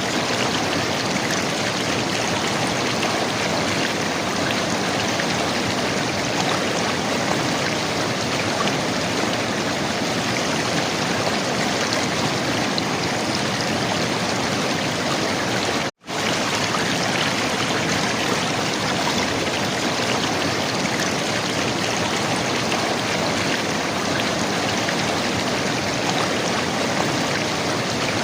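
River water flowing and gurgling steadily, with a split-second gap in the sound a little past halfway.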